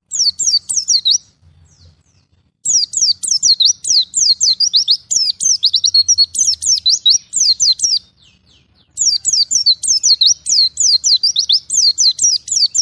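A songbird singing in fast runs of high, sharply falling chirps. It sings for about a second, breaks off, then starts again in a long run a few seconds in, pauses briefly and resumes.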